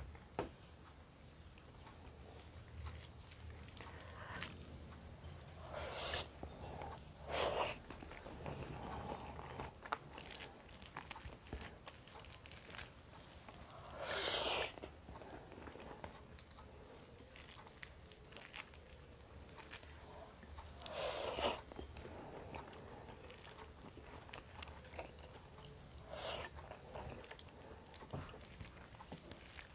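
Close-up chewing and mouth sounds of a person eating rice and spicy fish with her fingers, picked up by a clip-on lapel microphone: soft wet clicks and smacks, with a few louder noisy bursts of about half a second each.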